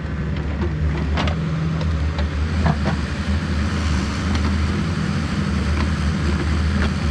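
Yanmar VIO50 mini excavator's diesel engine running steadily under work, with a few short knocks and clanks about one and three seconds in.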